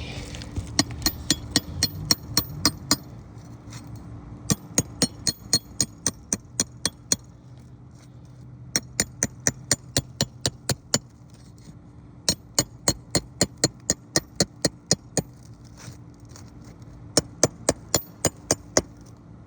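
A hammer rapidly tapping metal, about five strikes a second, in five runs of roughly ten to fourteen ringing taps each with short pauses between. It fits a flat pry bar being driven under the shingles to free them for removal.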